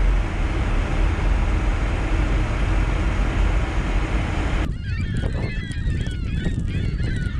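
Strong wind buffeting the microphone. About four and a half seconds in, the sound cuts abruptly to a flock of geese honking, many overlapping calls, with a low wind rumble beneath.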